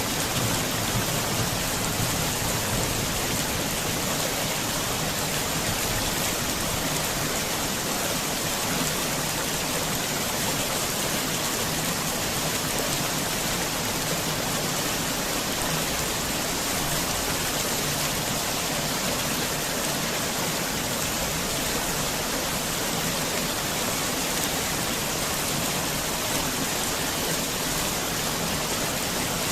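Heavy rain falling in a steady, even downpour. The tail of a thunder rumble dies away in the first second.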